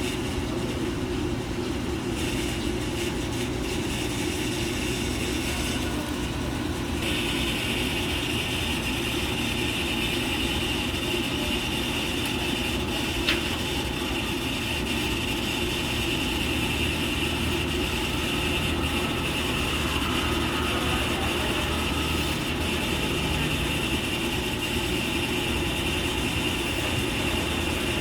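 Wood-fired rotisserie turning its spits of whole chickens, a steady mechanical running with a ratcheting clatter. A higher hiss joins about seven seconds in, and there is a single sharp click near the middle.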